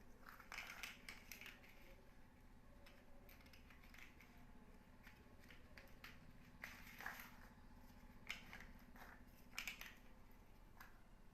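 Small plastic building blocks being handled and pressed together: faint, scattered clicks and snaps in a few small clusters, over a faint steady low hum.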